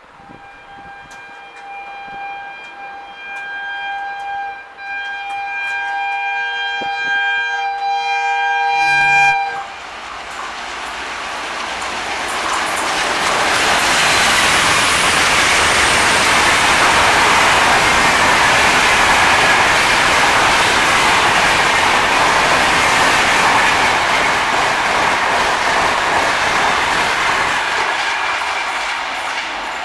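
Twin WDP3A ALCO diesel locomotives sound a multi-note horn in one long blast that grows louder as they approach and stops about nine seconds in. The locomotives and their passenger coaches then pass at speed: a loud rush of engine noise and wheels clattering over the rails, easing off near the end.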